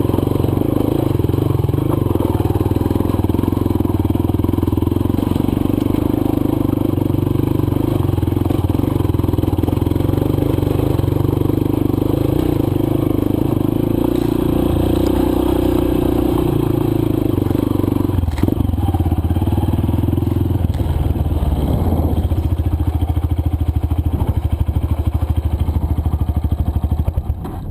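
Single-cylinder four-stroke dirt bike engine running under way on a trail, its note shifting with the throttle, with a sharp knock about two-thirds through and a lower, steadier note after it. The sound falls away sharply at the very end.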